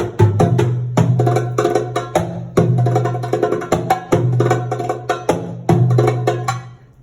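Live Middle Eastern hand-drum solo: quick runs of sharp high strokes over deep ringing bass strokes, with a brief break near the end.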